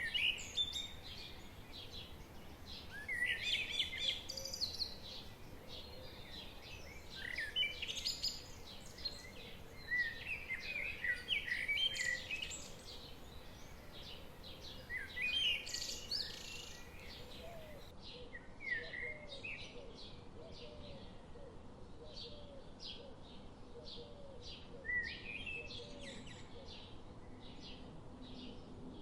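Songbirds singing in short chirping phrases every few seconds over a steady background rush, the babbling of a forest stream. The birdsong grows fainter and sparser about two-thirds of the way through.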